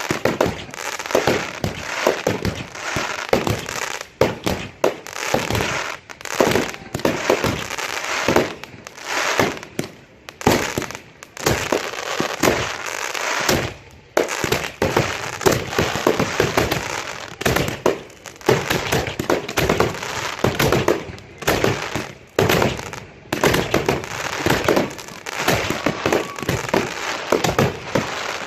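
A fireworks display: a fast, unbroken run of bangs and crackling, several a second.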